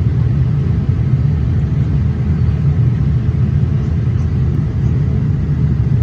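Steady low rumble of engine and airflow noise inside the cabin of a Boeing 787-8 airliner in flight.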